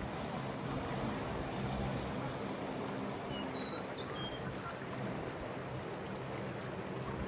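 Steady rushing of a mountain stream, with a few short high chirps near the middle.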